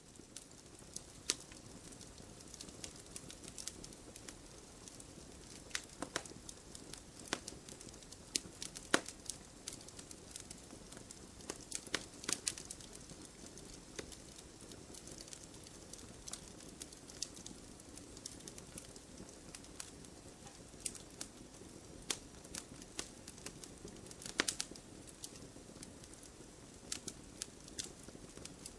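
Wood fire burning with a steady low hiss and irregular crackling, sharp pops every second or so and a few louder snaps.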